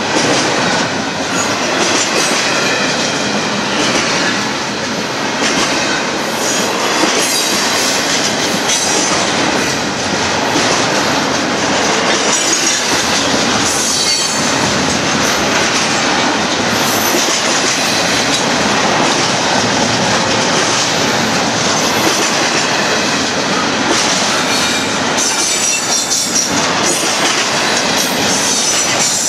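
Union Pacific container train's cars rolling past: a steady loud rumble and rattle of steel wheels on the rail, with thin wheel squeals about halfway through and again near the end.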